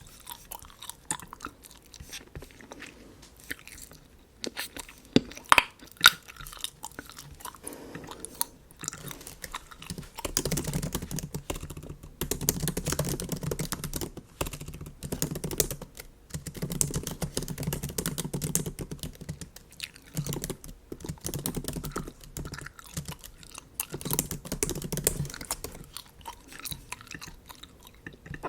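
Bubble gum chewed close to the microphone, in stretches of a few seconds with short pauses between. In the first few seconds there are only scattered sharp clicks, two of them loud.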